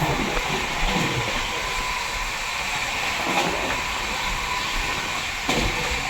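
Steady rushing noise of a passenger train running on the rails, with one brief knock about five and a half seconds in.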